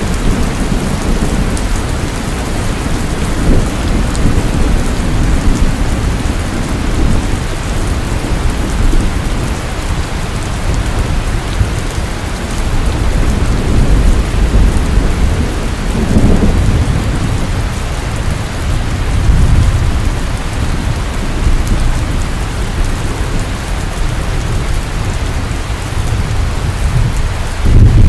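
Rain falling steadily in an even hiss, under a deep rumble that swells and fades several times.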